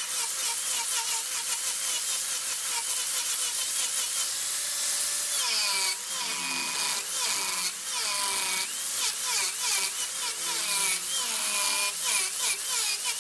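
Wood lathe turning, a cutting tool scraping against the spinning wood with a wavering high-pitched whine over a rasping hiss.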